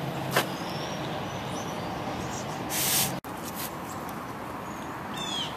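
Outdoor background with a steady low hum, a click and a brief loud hiss. Near the end a bird starts singing a run of short, falling whistled notes, a little more than two a second.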